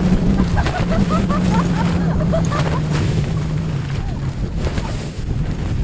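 Strong wind buffeting the microphone, a loud low rumble, with a steady low hum that sinks slowly in pitch. Short squeaky chirps come and go in the first few seconds.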